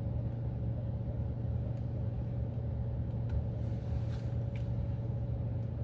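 Steady low hum of a car's running engine heard from inside the cabin, with a few faint clicks around the middle.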